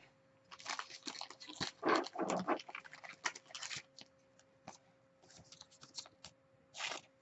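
Trading cards and their plastic sleeves being handled: irregular soft rustling and light clicks, busiest in the first four seconds.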